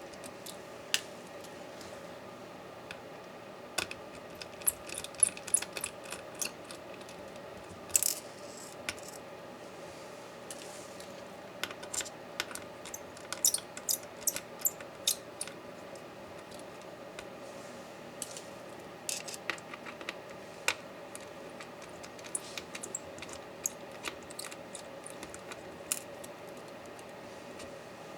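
Scattered sharp clicks and light clinks of small metal laptop parts and tools being handled and set down during disassembly, some in quick clusters. A steady background hum runs beneath.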